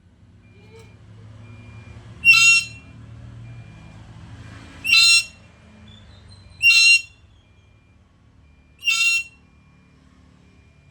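Black-capped lory giving four loud, short calls about two seconds apart.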